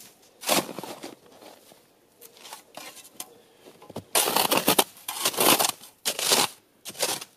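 Snow shovel scraping and scooping into snow: a stroke about half a second in, then several close strokes in the second half.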